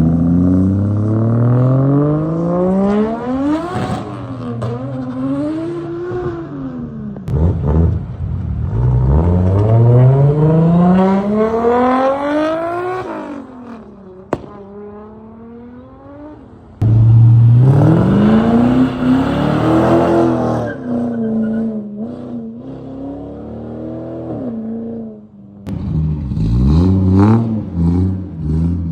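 Car engines accelerating hard in four separate runs, each a loud engine note climbing steadily in pitch. Each run starts suddenly, near the start and about 7, 17 and 26 seconds in.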